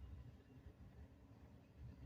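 Near silence with a faint, uneven low rumble.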